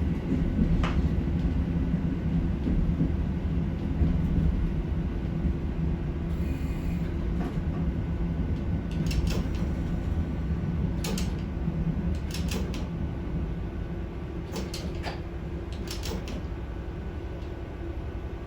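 KiHa 40 diesel railcar's engine running with a steady low drone. From about halfway, its wheels click over rail joints in pairs every second or two, while the overall sound slowly eases off.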